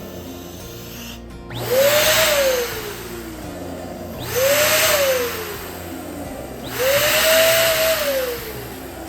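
Electric balloon pump switched on in three short blasts of rushing air, its motor spinning up quickly each time and winding down slowly after, as balloons are inflated.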